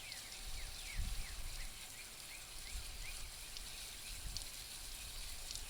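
Water from a hose spraying onto lava rock spread on a screen, a steady hiss, as the rock is rinsed of its red volcanic dust. A bird chirps repeatedly over the first half.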